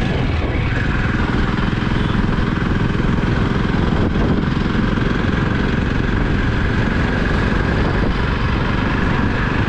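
Jawa motorcycle's single-cylinder engine running steadily under way, with a thin steady whine above it from about a second in.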